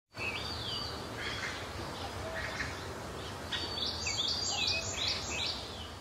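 Birds calling over a steady low background noise, with a run of quick falling chirps from about three and a half seconds in; the sound fades near the end.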